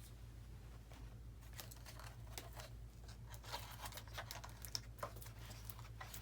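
Faint, irregular clicks, taps and rustles of hands handling battery packs and plastic and foam model parts, over a steady low electrical hum.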